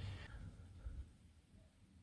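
Near silence: faint low background noise that fades away, after the last word of a man's speech at the very start.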